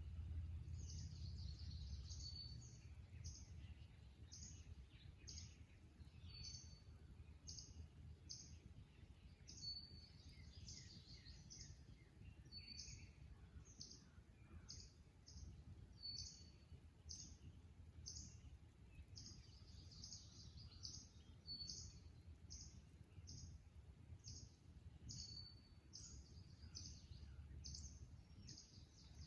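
Faint dawn marsh chorus of birds: a steady run of short, high chip notes, about one or two a second, and a brief high whistle every few seconds, over a low steady rumble.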